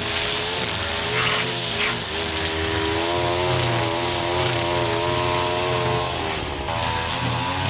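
Honda petrol lawn mower engine running steadily while mowing, its pitch wavering slightly, with brief extra hiss a little over a second in.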